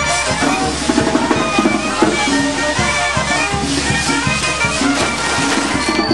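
Mexican brass band (banda de viento) playing a lively tune: wind instruments carrying held notes over a steady drum beat.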